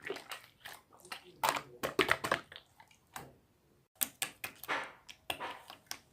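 Slime being squeezed and pressed by hand, making irregular sticky clicks and squelches.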